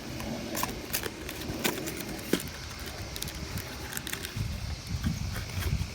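Scattered light clicks and clinks of tools and parts being handled during an oil change, over a steady low drone from a lawn mower cutting grass.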